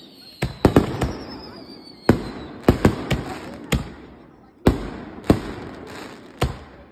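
Aerial firework shells bursting overhead: about a dozen sharp bangs in quick clusters, each trailing off in a rumbling echo. A faint high whistle falls slowly in pitch and fades out about two seconds in.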